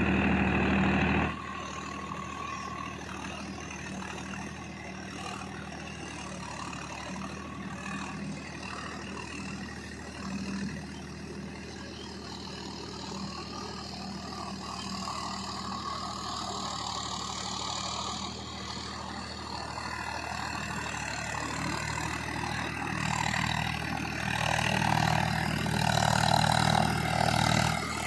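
Swaraj 744 FE tractor's diesel engine running steadily. There is a louder passage in the first second, and the engine grows louder over the last several seconds, as if under more throttle or drawing closer.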